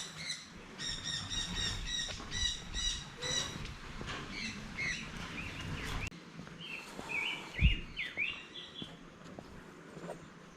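Forest birds calling: a quick series of short, evenly repeated high chirps for the first few seconds, then a bunch of short upswept calls a little past the middle. A single soft low thump comes just before the end of those calls.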